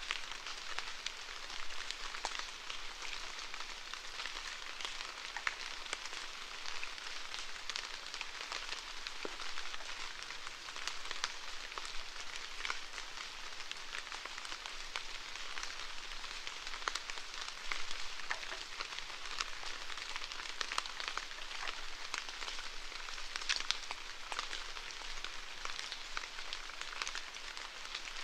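Steady rainfall: an even hiss of rain with many close individual drops ticking on a surface.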